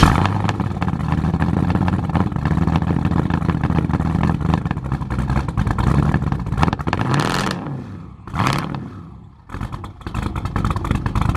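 Twin-turbo 5.3 L LS V8 running through straight-piped exhaust with no mufflers, sounding rough. It idles with a couple of short throttle blips, nearly dies away about eight seconds in, catches with a brief rev, and then runs choppy and uneven.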